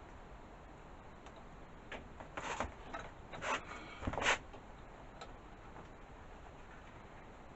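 A cluster of short clicks and clinks of tools and engine parts being handled, about two to four seconds in, the loudest knock near the end of the cluster, over a faint steady background.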